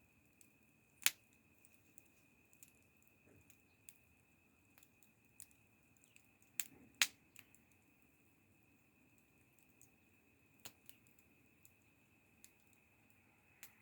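Wood fire crackling: scattered sharp pops and small ticks at irregular intervals, the loudest about a second in and a close pair a little past halfway, over a faint steady high whine.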